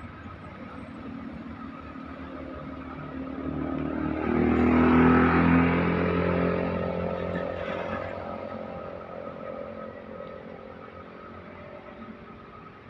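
A motor vehicle passing by on the road: its engine grows louder to a peak about five seconds in, drops in pitch as it goes past, and fades away.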